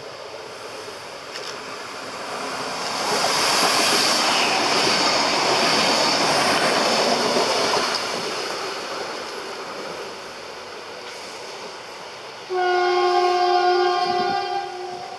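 Diesel multiple unit SA136-012 passing close by: its running noise and wheels on the rails build to a peak and fade as it pulls away. Near the end it sounds one long horn blast of about two seconds.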